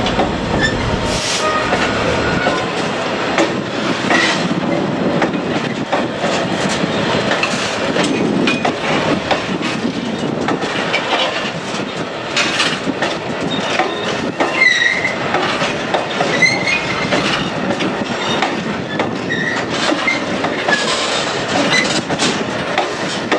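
Freight train wagons rolling past, wheels clattering over the rail joints with frequent clanks and short, high wheel squeals.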